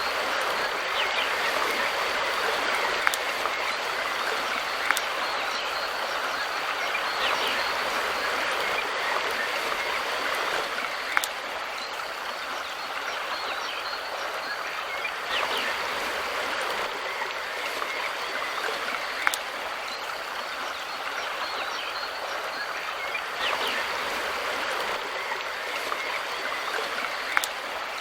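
Mountain river flowing over rocks: a steady rush of running water, with a few brief sharp clicks scattered through it.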